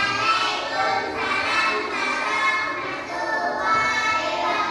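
A class of young children's voices singing together in unison, starting abruptly and holding drawn-out notes.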